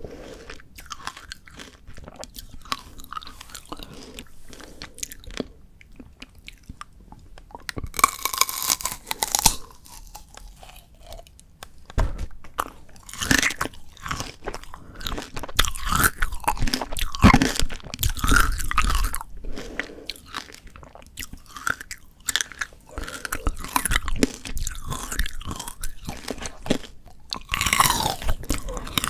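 Close-miked eating of frozen Shine Muscat grape tanghulu: bites cracking the hard candy shell and crunching, chewing of the icy glazed grapes, with bursts of louder crunching between quieter chewing.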